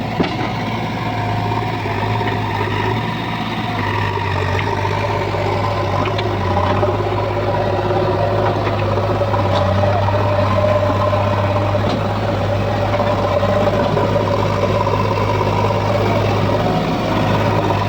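Diesel engine of heavy farm or earthmoving machinery running steadily, a little louder after the first few seconds.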